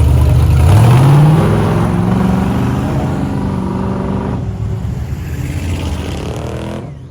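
A truck's engine accelerating as it pulls away, its pitch climbing about a second in, then fading steadily as it drives off; the sound drops away suddenly near the end.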